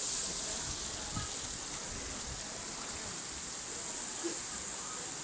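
Steady outdoor ambience of river water with a continuous high-pitched hiss, and a few faint short chirps.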